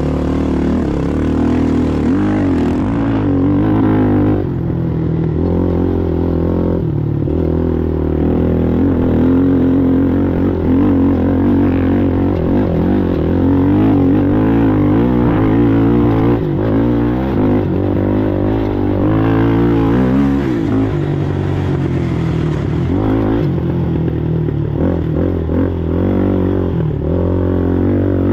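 Racing ATV engine running hard, its pitch rising and falling continuously with the throttle, with brief drops in revs about four seconds in and again past the middle.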